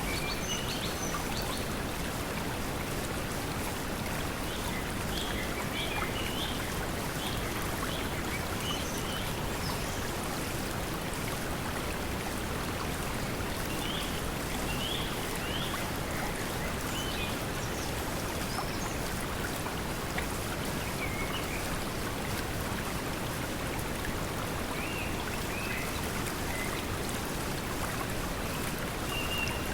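Steady pink noise blended with flowing water, with short bird chirps here and there over it and a longer call near the end.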